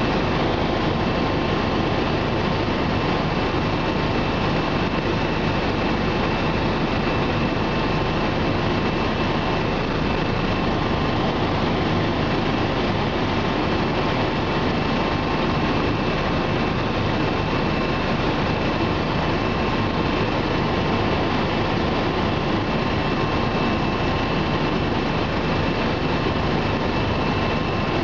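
Bell 429 twin-turbine helicopter in steady cruise, heard from inside the cabin: a constant rush of engine and rotor noise with a faint steady whine, unchanging throughout.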